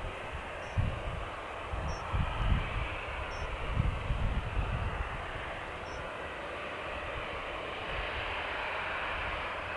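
Jet airliner engines, a Boeing 777-300ER's GE90 turbofans, running with a steady roar that swells a little toward the end, with uneven low rumbles in the first half.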